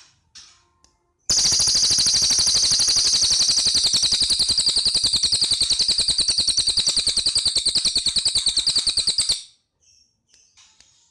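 Cililin bird singing: a few soft chirps, then from about a second in a loud, very rapid trill of evenly repeated notes lasting about eight seconds, followed by soft chirps again near the end.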